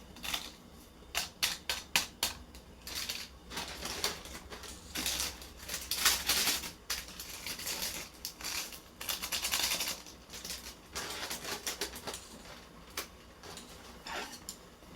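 Irregular clicking and clattering of objects being handled, with short bursts of rustling about five and nine seconds in.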